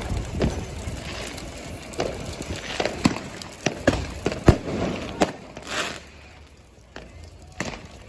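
Fireworks going off: a run of sharp bangs and cracks at uneven intervals over a general rumble, thinning out and quieter from about six seconds in.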